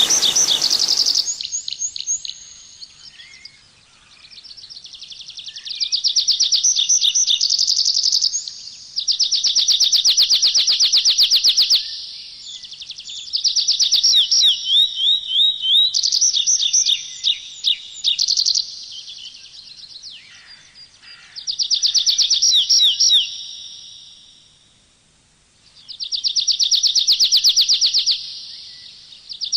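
A songbird singing phrases of rapid, high trills, each two to three seconds long, repeated after short pauses. A rushing-water sound cuts off about a second in.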